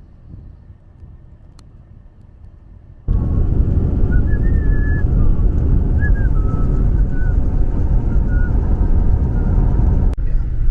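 Steady low road and engine rumble inside a moving car, cutting in abruptly about three seconds in after a quieter stretch.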